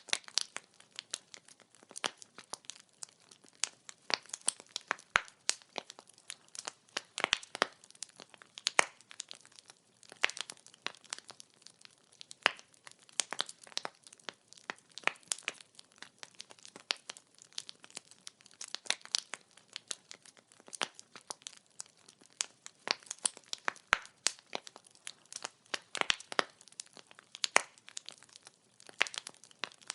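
Wood fire burning, with dense irregular crackling and sharp pops of burning firewood over a faint hiss.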